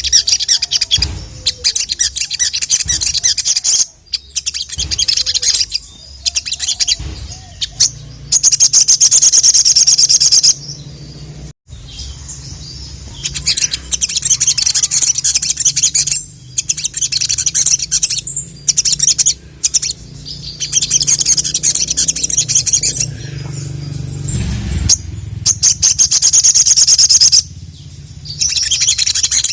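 Ruby-cheeked sunbird (sogon) singing vigorously: long runs of rapid, high-pitched chattering notes, each lasting a few seconds, with short pauses between them.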